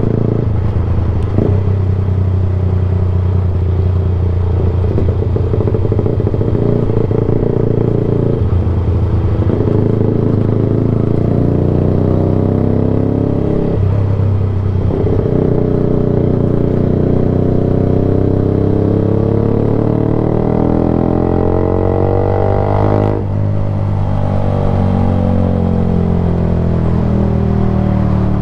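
Yamaha YZF-R sport bike engine running loud through an unbaffled Black Widow exhaust can with the catalytic converter removed. The revs rise and fall as it is ridden, briefly dipping twice and dropping away about three-quarters of the way through.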